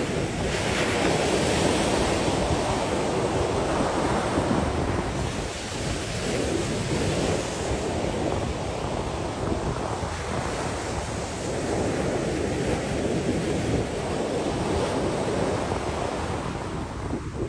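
Sea waves washing onto the shore in a continuous surf that swells and eases every few seconds, with wind on the microphone.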